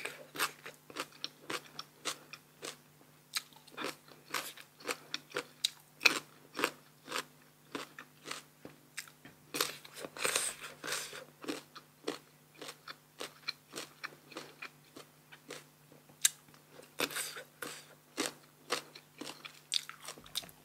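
Close-up crunching and chewing of crisp, firm sour green mango, the bites and chews coming sharply about two to three times a second. A faint steady low hum runs underneath.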